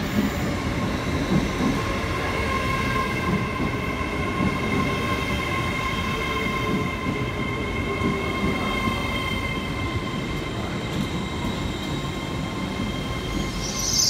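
LNER Azuma, a Hitachi high-speed train, running along the platform. A rumble of carriages and wheels goes on with a steady high-pitched whine, and a loud hiss starts just before the end.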